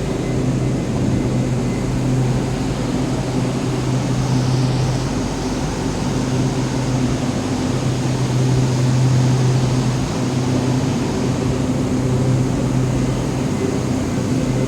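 Metro train standing at the platform with its doors open: a steady low hum from the train's onboard equipment over a soft even hiss.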